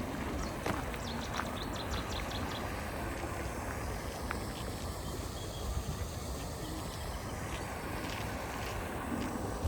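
Outdoor park ambience: a steady low rumble, with a bird giving a quick run of short high notes from about half a second to two and a half seconds in.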